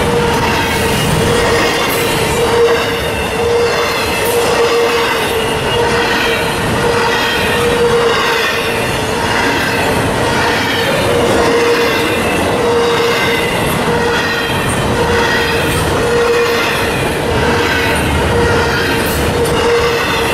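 Double-stack intermodal train's container well cars rolling past close by: a continuous rumble and rattle of steel wheels on rail with occasional sharp clicks. A steady squealing tone from the wheels runs through it.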